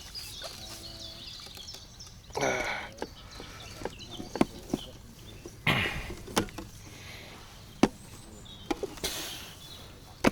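Handling noise: scattered sharp clicks and a few short rustling bursts as fishing tackle is handled.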